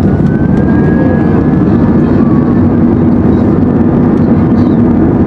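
Steady loud cabin noise of an Airbus A321 under way, with the jet engines and rushing air blending into a deep, even rumble.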